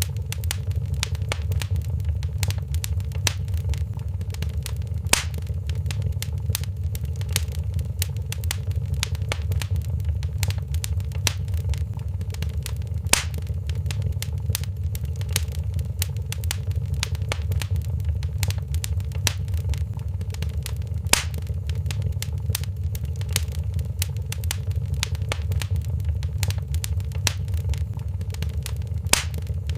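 Wood fire crackling in a fireplace: a dense patter of small crackles with a few louder pops, over a steady low rumble.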